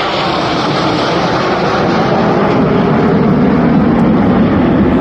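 Aircraft engine noise from a flypast: a loud, steady rushing sound that grows a little louder and deeper toward the end.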